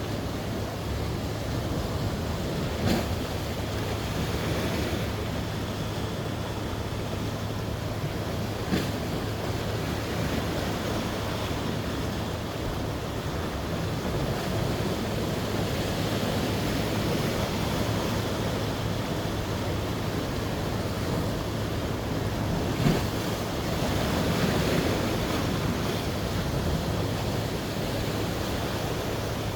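Sea waves washing on the shore, swelling and easing every several seconds, with wind buffeting the microphone. A steady low hum sits underneath, and there are a few brief clicks.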